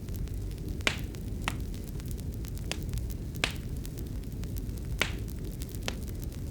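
Wood fire in a fireplace crackling: a steady low rumble of burning with sharp, separate pops every second or so, the loudest about a second in and again near the middle.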